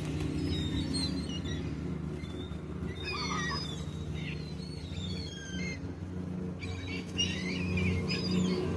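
Gulls calling over and over, short gliding squealing cries that crowd together about three seconds in and again near the end, over a steady low hum.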